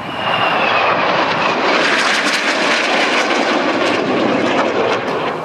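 A formation of Northrop F-5E Tiger II jets, each with twin General Electric J85 turbojets, flying past with loud jet noise. A high whine falls in pitch in the first second or so, and the noise eases slightly near the end.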